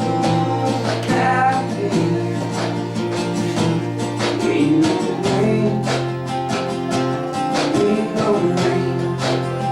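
Live acoustic country band playing, with acoustic guitars strummed in a steady rhythm.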